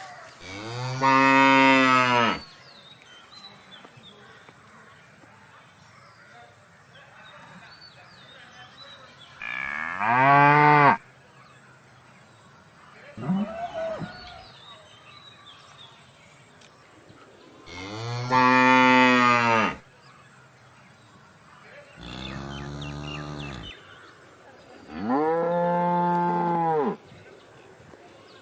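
A bull mooing again and again: about six long, drawn-out calls, each one to two seconds, several seconds apart, a couple of them fainter than the rest.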